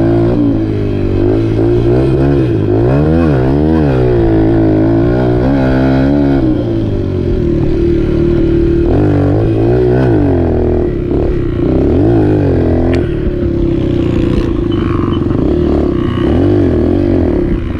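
Dirt bike engine running under load as it is ridden, the revs rising and falling quickly over and over, then holding a steadier pitch for the last few seconds.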